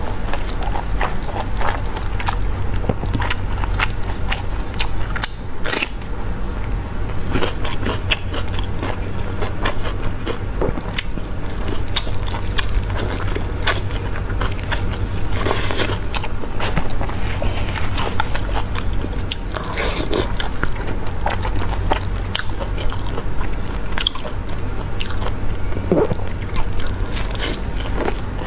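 A person biting and chewing meat close to a clip-on microphone: many wet smacks and crunchy clicks, irregular and close, over a steady low hum.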